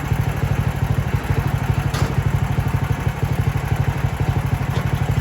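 Mechmaxx sawmill's gasoline engine running steadily with an even, rapid low pulse, about a dozen beats a second. There is a short click about two seconds in.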